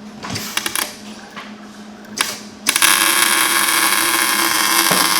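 Metal parts and hand tools clinking in a few sharp clicks, then, about two and a half seconds in, a loud steady hissing noise sets in and holds.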